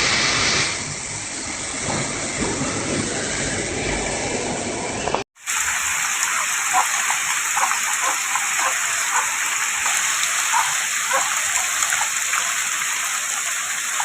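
Heavy rain pouring down in a steady hiss. About five seconds in it cuts abruptly to another stretch of heavy rain, brighter in tone, with the patter of individual drops splashing through it.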